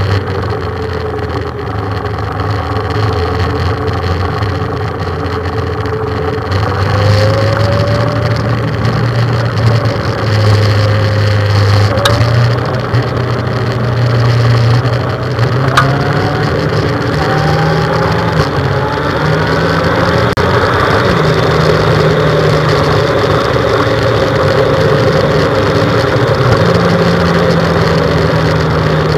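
A motorcycle engine heard on board while riding, its pitch stepping up and down several times with throttle and gear changes, over steady wind noise.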